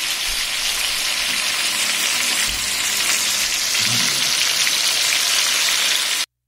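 Chicken drumsticks shallow-frying in hot oil in a nonstick frying pan: a steady sizzle that cuts off suddenly near the end.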